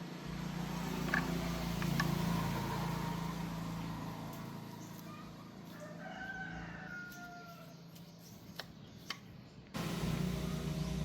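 A rooster crowing once, in the middle, over a steady low hum, with a few sharp clicks.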